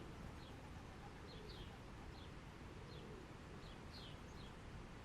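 Faint ambience of small birds chirping: short, falling chirps, one or two a second at irregular intervals, over a low steady background hum.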